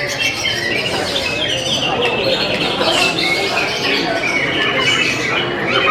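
Many caged green leafbirds (cucak hijau) singing at once, a dense, unbroken overlap of high chirps and whistles.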